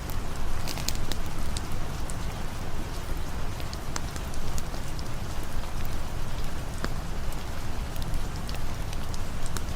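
Steady rain falling, with scattered sharp clicks throughout.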